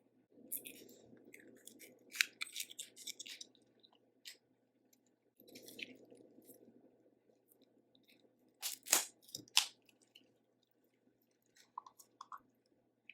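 Close-miked eating: chewing with wet mouth clicks and crackles, and a few louder sharp snaps about nine seconds in.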